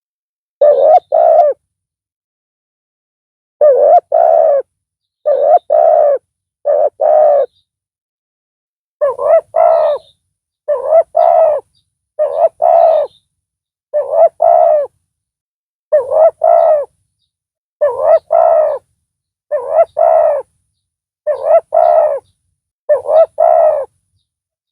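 Spotted dove (tekukur) cooing: a loud, deep-voiced tekukur repeats its two- to three-note coo about thirteen times, one phrase every one and a half to two seconds. This is the kind of call used as a lure for trapping tekukur.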